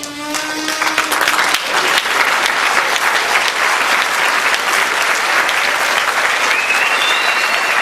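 The school concert band's last held note dies away in the first second or so, and the audience breaks into steady applause. A high whistle glides up and holds near the end.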